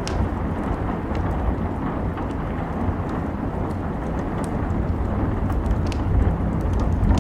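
Steady rain with a deep low rumble underneath, and the irregular sharp pops and crackles of a wood fire.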